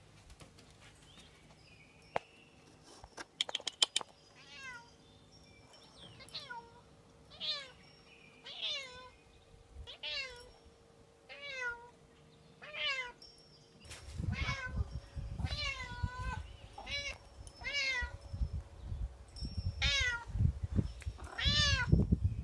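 Domestic cat meowing over and over, about a dozen loud meows each rising and then falling in pitch. A low rumbling noise joins about two-thirds of the way through.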